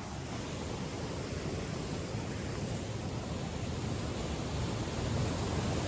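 Waterfall rushing steadily, an even wash of water noise that grows slightly louder toward the end.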